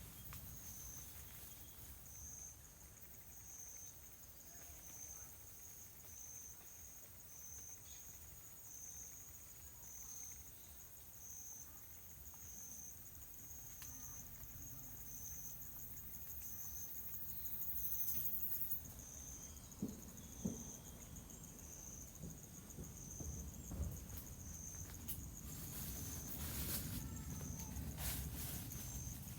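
Insects chirping in a steady, evenly pulsed high trill, a little more than one pulse a second, with a few faint knocks about two-thirds of the way in.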